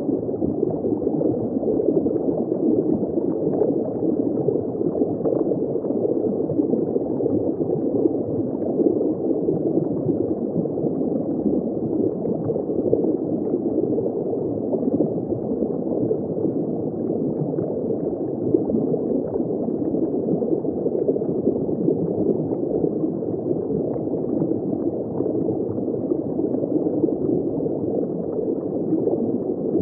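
Underwater ambience recorded just below the surface: steady, muffled bubbling and gurgling water with no high frequencies.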